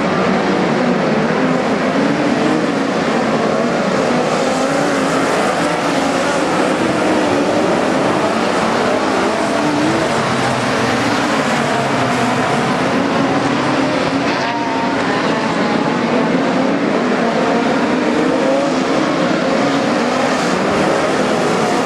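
Several midget race cars running together at racing speed, their engines rising and falling in pitch as they are driven around the track.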